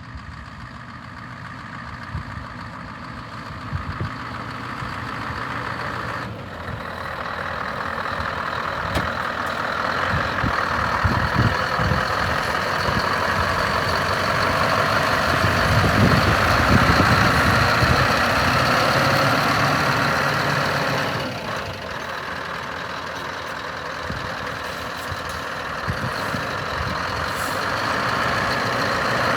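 Scania R560 hook-lift truck's V8 diesel engine running, building in loudness toward the middle and dropping back suddenly about 21 seconds in. A thin steady high tone sits over it from about six seconds in.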